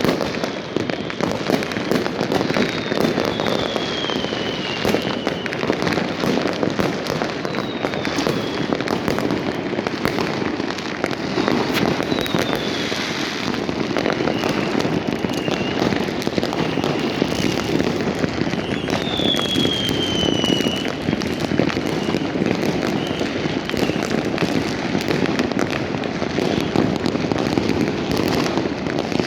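Many fireworks and firecrackers going off at once in a dense, continuous crackle of bangs. Several high whistles fall in pitch over it, the clearest about two-thirds of the way through.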